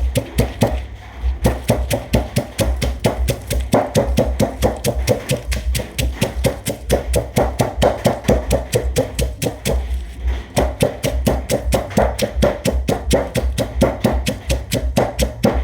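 Pestle pounding a Thai salad in a mortar, with fast, even strikes about five a second that give a dull thud and a knock each time.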